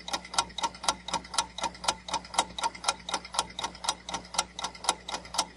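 Clock-tick countdown timer sound effect: rapid, evenly spaced ticks, several a second, counting down the seven-second answer time.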